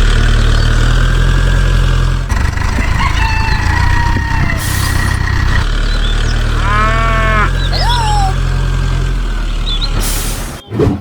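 Cattle mooing in long, low, drawn-out calls, one after another, with birds chirping.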